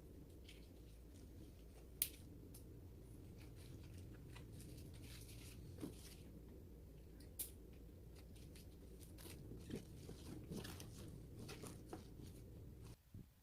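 Quiet handling sounds: scattered clicks, light snips and rustles over a low steady hum, with a sharper click about two seconds in.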